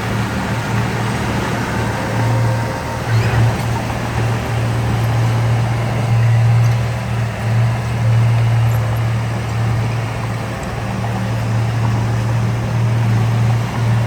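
Heavy diesel engine of earthmoving machinery, a bulldozer or dump truck, running steadily under load with a constant low drone.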